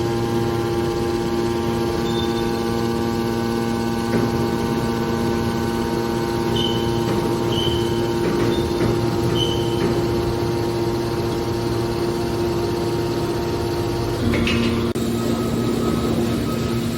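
Hydraulic scrap-metal baler running: a steady machine hum made of several level tones, with a few short high chirps in the middle. About fourteen seconds in there is a knock, and the hum changes pitch as the machine shifts into a different load.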